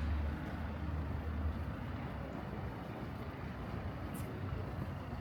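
Outdoor city street ambience with a low rumble, like a vehicle going by, strongest in the first second and a half, then a steady wash of street noise with a couple of faint ticks near the end.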